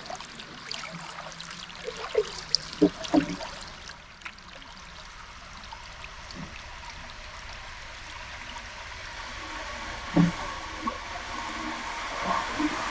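Water trickling and splashing around a canoe paddle and the hull of a small pack canoe, an even hiss that grows slowly louder. There are a few light knocks about two to three seconds in, and another near ten seconds.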